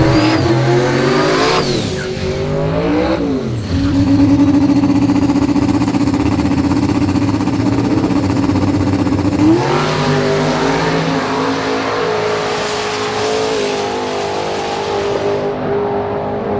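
A drag race car's engine revving. Its pitch drops, holds steady at high rpm for several seconds, then climbs and holds at a higher rpm, with a hissing noise over it for a few seconds.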